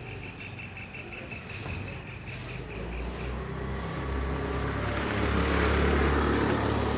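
A motor vehicle, most likely a truck, passing by: a low engine rumble that builds about halfway through, is loudest a second or two before the end and then starts to ease off. A rapid series of short high beeps runs through the first three seconds.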